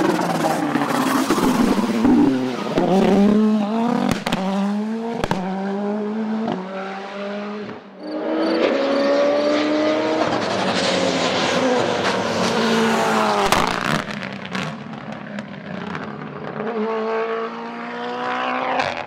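Racing car engine at full throttle on a hillclimb, its pitch climbing and dropping again through a series of quick gear changes, with sharp cracks between shifts. The loudness dips briefly about eight seconds in, then the engine climbs through the gears again.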